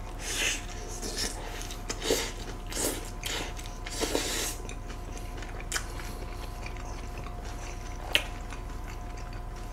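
Close-miked mouth sounds of two people biting into and chewing giant soft-bun burgers: a string of wet, squishy bites and chews over the first four and a half seconds, then quieter chewing, with one sharp click about eight seconds in.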